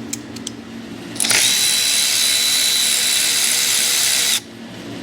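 A power drill runs steadily for about three seconds with a high whine, starting about a second in and cutting off sharply, as it backs out a fastener on the A/C compressor's line connections.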